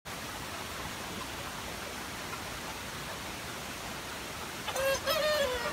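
Steady hiss, then near the end a short two-part rooster-style crow, its second part ending in a falling note.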